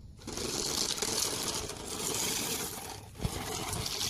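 Toy RC car driving through wet mud: a steady rattling, hissing churn from its small electric motor and spinning wheels, which drops out briefly about three seconds in before a few low knocks.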